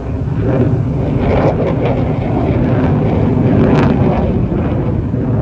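Aircraft engine noise: a loud, steady rumble from a plane flying over the air show, swelling a little near the middle, with wind buffeting the microphone.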